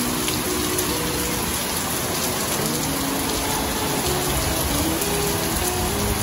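Heavy rain pouring steadily onto a lawn and trees in a thunderstorm, a dense, even hiss of falling water.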